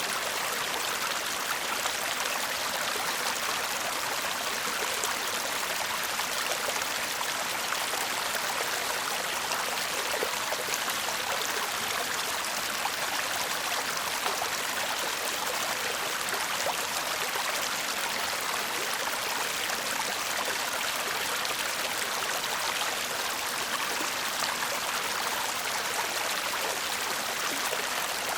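Shallow stream (せせらぎ) babbling and trickling over stones, a steady, even flow of water with fine splashing and no breaks.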